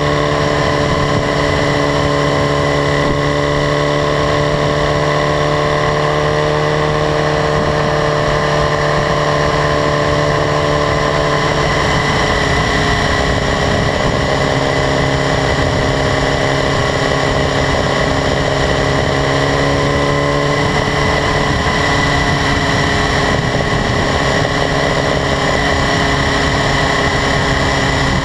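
2015 BMW S1000RR's inline-four engine running steadily at road cruise. Its pitch holds nearly level, shifting slightly about twelve and twenty-one seconds in.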